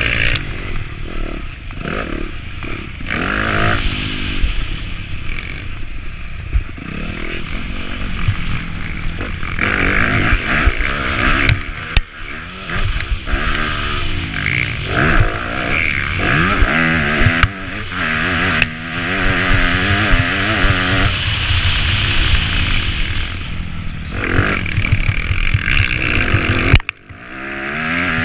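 Motocross bike engine revving up and down over and over as the rider accelerates, shifts and backs off the throttle, with a few sharp knocks. The engine sound briefly drops away near the end, then comes back.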